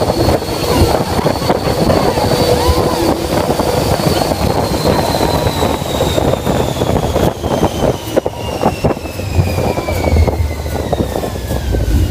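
Ride vehicle running at speed with wind rushing over the microphone, and a high whine that falls steadily in pitch as the vehicle slows. A low rumble comes in during the last few seconds.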